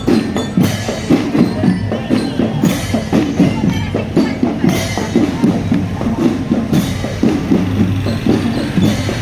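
Marching drumband playing: drums beating a fast, steady rhythm, with a cymbal crash about every two seconds.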